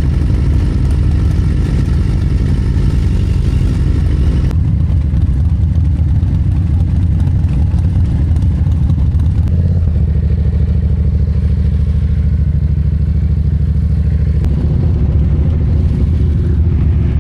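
Motorcycle engine running while riding, loud and steady, its note changing about four and a half, ten and fourteen and a half seconds in as the throttle or gear changes.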